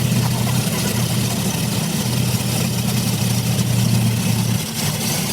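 An engine idling steadily, a low even hum that dips briefly a few times.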